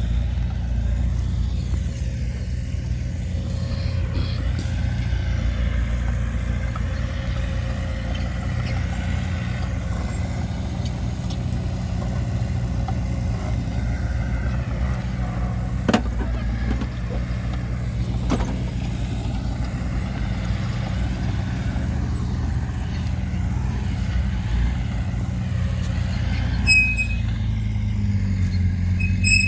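Heavy diesel earthmoving machinery running steadily, its engine a low continuous drone, with two sharp metallic knocks a little past halfway and a few short high squeaks near the end.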